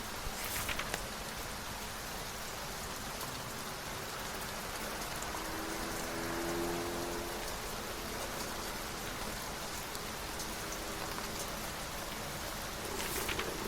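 Steady rain falling, an even hiss. Brief papery rustles, like book pages turning, come about half a second in and again near the end, and a soft pitched hum swells and fades in the middle.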